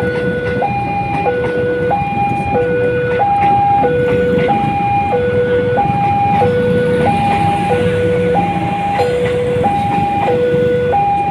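Railway level-crossing warning alarm sounding its two-tone electronic signal, a high and a low tone alternating about every two-thirds of a second, over a steady low rumble.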